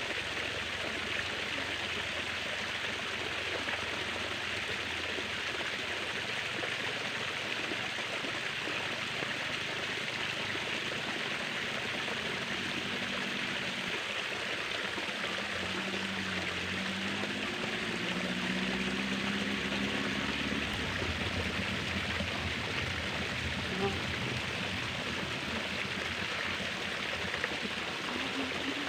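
Steady rush of flowing water from a stream, an even, unbroken hiss. About halfway through, faint low pitched sounds come and go for several seconds.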